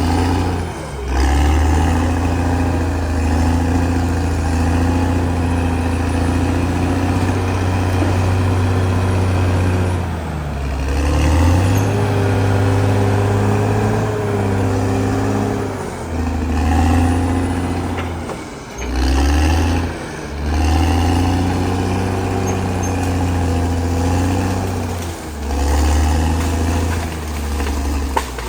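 CAT D6R XL bulldozer's diesel engine running hard, its note dropping and picking up again several times as the load changes, with a higher whine over the low drone.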